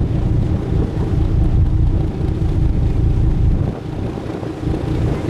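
A sightseeing boat's engine running with a steady low rumble under way, with wind buffeting the microphone; the rumble eases briefly about four seconds in.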